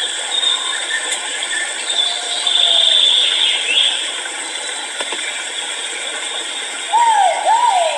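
Great argus pheasant calling: a loud pair of arched, rising-and-falling notes near the end, with a fainter one earlier. A high steady buzz is loudest a couple of seconds in.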